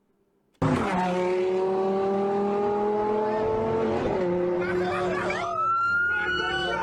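A car engine accelerating hard: its note starts suddenly less than a second in and climbs steadily, drops about four seconds in as it changes gear, then climbs again with a higher-pitched whine over it.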